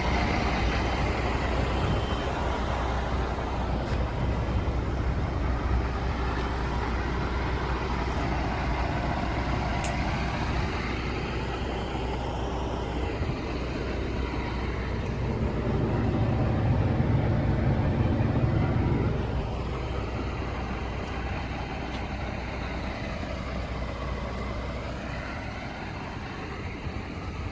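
Scania R 480 truck's diesel engine running steadily, with a louder stretch for a few seconds about two-thirds of the way through.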